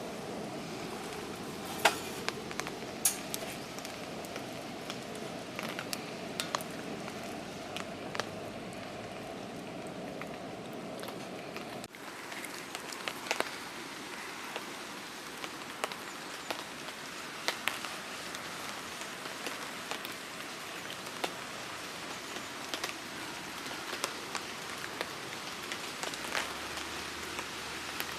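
Steady rain falling, with scattered sharp ticks of single drops. The sound shifts abruptly about twelve seconds in, becoming thinner in the low-mid range.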